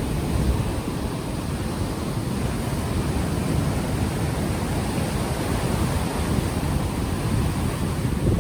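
Ocean waves washing on the shore, mixed with wind buffeting an unshielded microphone, which makes a steady rumbling hiss.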